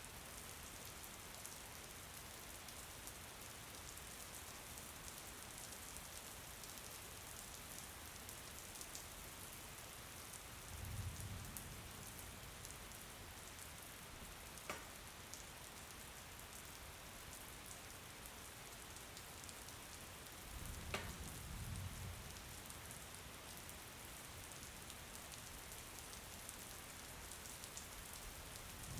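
Steady rain falling on a surface, a soft even hiss with fine pattering of drops. Two short low rumbles come about 11 and 21 seconds in, and there are two sharp clicks.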